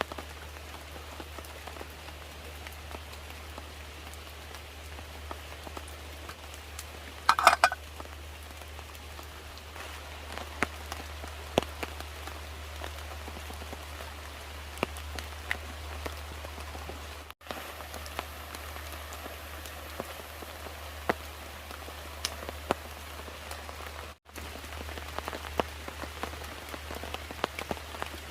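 Steady rain falling, with many separate drops ticking sharply on a surface over a low even rumble. A short, louder rattle of knocks comes about a quarter of the way in. The sound cuts out completely for an instant twice, in the middle and about two-thirds through.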